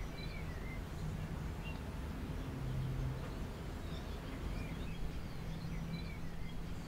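Small birds chirping here and there over a low, steady background noise outdoors.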